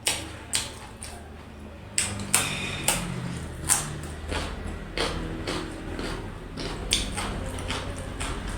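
Close-up eating sounds: a run of sharp, irregular clicks and smacks, about one or two a second, over a low steady hum.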